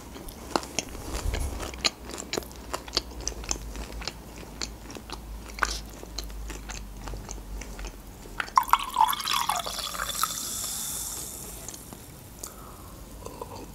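Close-mic chewing of crunchy breaded chicken strips, a run of small crisp crunches. About eight seconds in, a carbonated watermelon drink is poured into a glass, gurgling and then hissing with fizz for a few seconds.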